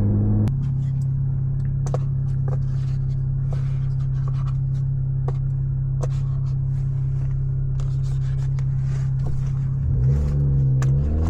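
Infiniti Q50's engine and exhaust droning steadily at cruising speed, with light clicks and rattles over it. Near the end the pitch climbs as the car accelerates.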